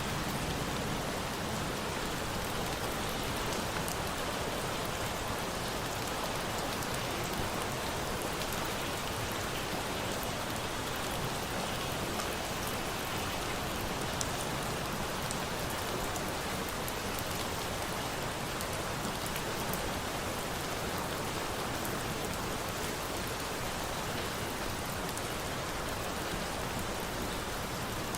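Steady rain falling, an even hiss without let-up, with a few faint sharp crackles of a wood fire here and there.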